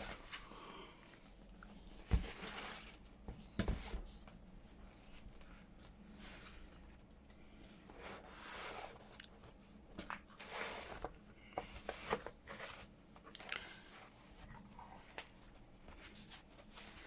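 Paper pages and inserts of a handmade junk journal being handled and shifted: intermittent rustling and crinkling, with two sharp knocks in the first few seconds.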